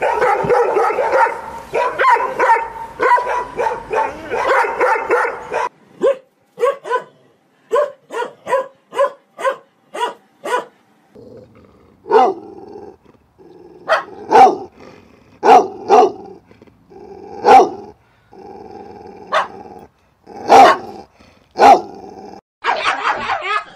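Dogs barking. A rapid run of overlapping barks for the first few seconds gives way to short sharp barks about two a second, then single barks about one a second over a steady background noise, and rapid barking again near the end.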